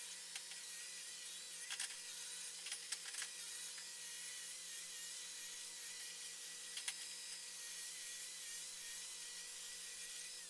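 Angle grinder running steadily, its disc grinding on small steel brackets to clean them up. A slightly wavering whine carries over the grinding hiss, with a few sharp ticks about two, three and seven seconds in.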